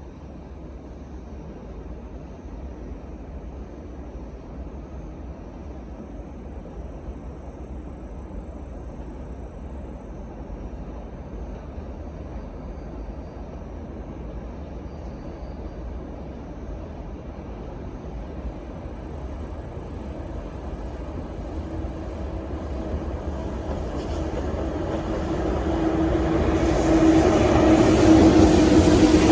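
Heavy freight train approaching, a low rumble growing steadily louder, with a steady humming tone joining in about two thirds of the way through as it draws near.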